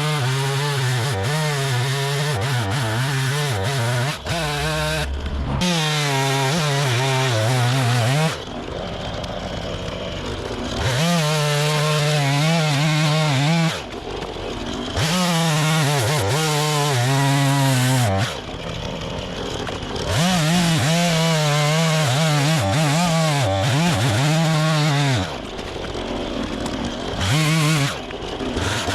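A small gasoline engine running at high revs under load as wood is cut or fed, its pitch dipping and recovering again and again. Four or five times the engine note drops away for a second or two into a lower, rougher noise before coming back.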